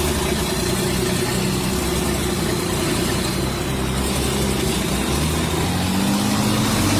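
Tractor engine running steadily under load while towing a heavy truck; its revs rise over the last second or two.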